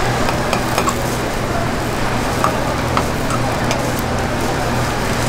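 Okonomiyaki patties frying in hot oil in the wells of a griddle pan, a steady sizzle. A few light clicks of metal tongs and a skewer against the pan, over a steady low hum.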